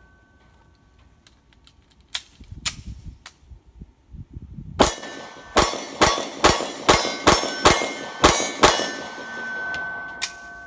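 Ruger LC9s 9mm pistol firing a rapid string of shots about half a second apart, starting about five seconds in. A few lighter cracks come earlier. The pistol cycles through the string without a stoppage, a sign that the sear spring repair has held.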